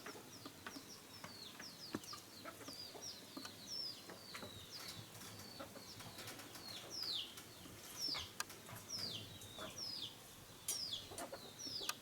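Chicks peeping: a steady run of short, high chirps, each falling in pitch, a couple every second, with a few faint clicks among them.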